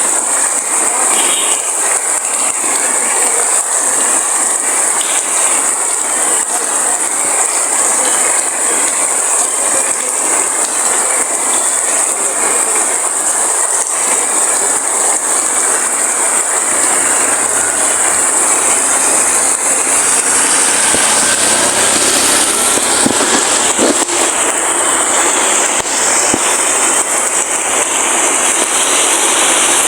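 Heavy rain falling steadily, a dense unbroken hiss, with a faint low rumble joining in the second half.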